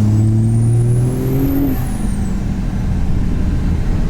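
Cummins diesel truck engine revving up for about a second and a half with a rising turbo whistle, then easing off as the whistle falls away, leaving the engine rumbling steadily.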